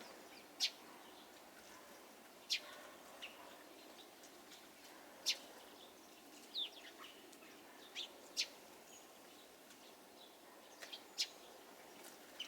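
Small garden birds giving short, high chirps, about ten single calls scattered a second or two apart, over a faint steady outdoor hiss.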